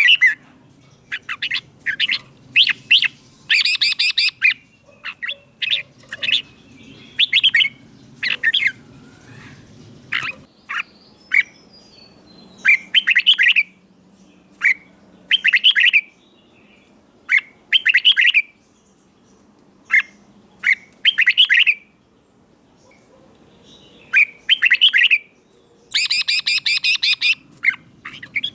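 Red-whiskered bulbul singing: loud, short warbled song phrases repeated every one to two seconds with short pauses between them. This is the 'double' (เบิ้ล) song style that keepers play to caged bulbuls to teach them or to stir them to sing.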